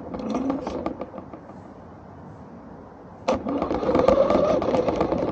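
Remote-controlled toy car driving in two spurts, its small electric motor whirring with wheels clattering over the ground: a short run at the start, then a longer, louder one starting a little after three seconds.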